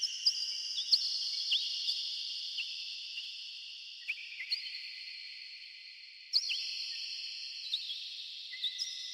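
Birds chirping with heavy echo: short, sharp downward-sweeping chirps at irregular intervals, each leaving a long ringing tail that hangs on and slowly fades. A louder cluster of chirps comes about six seconds in.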